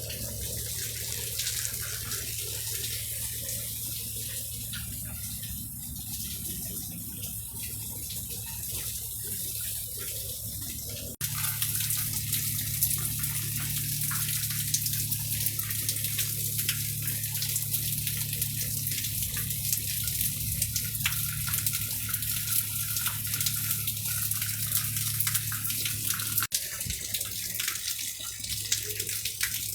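Rain falling steadily, a dense patter of drops together with running, splashing water. The sound breaks off abruptly about eleven seconds in and resumes louder.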